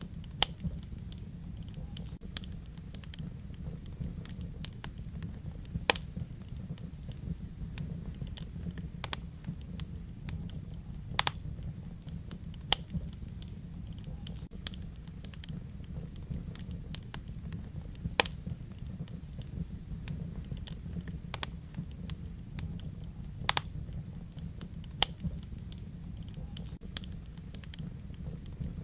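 Wood fire burning in a fireplace: a steady low rumble of the flames with sharp, irregular crackles and pops from the burning logs, a few louder snaps standing out.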